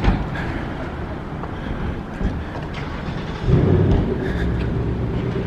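Road traffic going by: a steady rumble of passing cars, with a louder vehicle coming by about three and a half seconds in and a steady hum after it.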